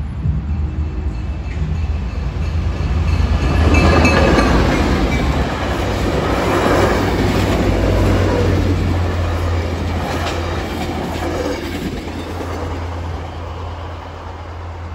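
Tri-Rail commuter train passing over a grade crossing: a low diesel locomotive drone and the rumble of the train build to their loudest about four seconds in, with the wheels clicking over the rails, then slowly fade as the train moves away.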